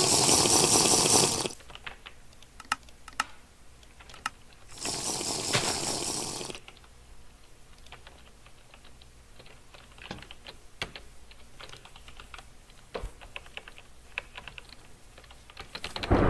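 Clicks from a new computer keyboard and mouse: scattered key presses and button clicks, coming faster near the end. Two loud bursts of hissing noise come at the start and about five seconds in.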